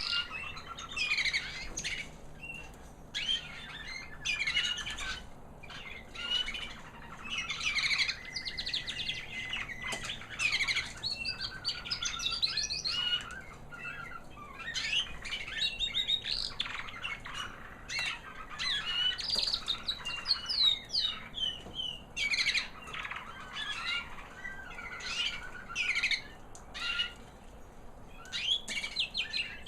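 American Singer canary hen singing a high, sweet little song: rapid trills and chirps strung into warbling phrases with short pauses between them.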